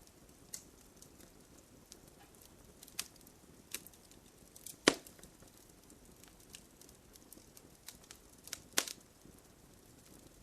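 Wood campfire crackling: irregular sharp pops and snaps, with two louder pops about five seconds in and near the end.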